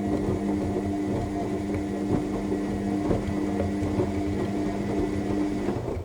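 AEG 7000 Series washing machine's drum motor turning the drum in the main wash of a Cottons 60 cycle: a steady hum with a few soft knocks from the tumbling load. The motor stops suddenly near the end as the drum pauses.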